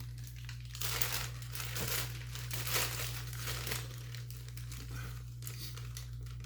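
Food packaging crinkling and rustling as it is handled, in a run of irregular rustles.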